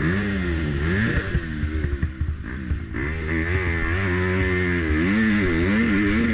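Motocross bike engine on a lap, revving up and down as the throttle is opened and closed; it drops off the throttle about two seconds in, then pulls steadily again.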